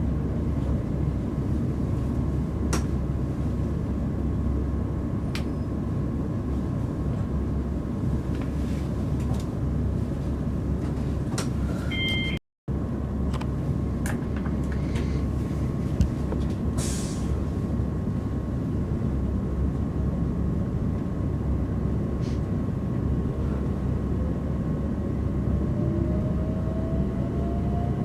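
Interior running noise of a Class 387/1 Electrostar electric train travelling between stations: a steady rumble of wheels on the track with a few light clicks. A faint whine that slowly rises in pitch comes in near the end.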